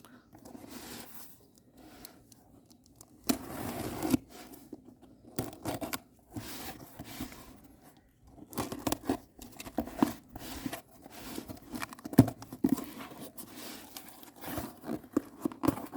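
Cardboard box being opened by hand: irregular tearing, scraping and rustling of the cardboard and packing, with scattered clicks and a sharp knock about twelve seconds in.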